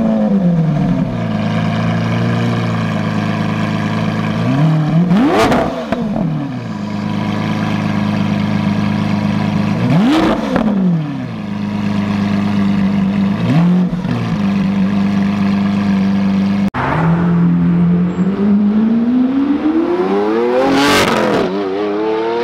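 Lamborghini Aventador's V12 engine settling from its start-up flare into a steady idle, blipped to sharp revs about 5, 10 and 14 seconds in. In the last few seconds it pulls away, the pitch rising steadily to a high rev.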